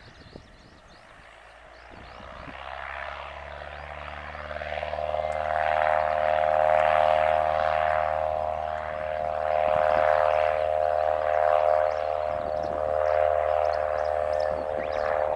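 Cessna 172S Skyhawk's four-cylinder Lycoming engine and propeller running steadily at constant pitch. The drone grows louder from about two seconds in and is loudest from about six seconds on as the plane comes close.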